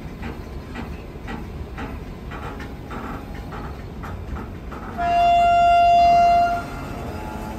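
Passenger train running, its wheels clicking over rail joints in pairs above a steady rumble; about five seconds in, the train's horn sounds one loud steady blast of about a second and a half.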